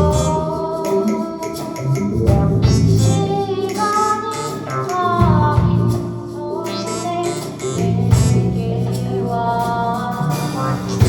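A song performed live: a singing voice with long held notes over guitar and bass accompaniment.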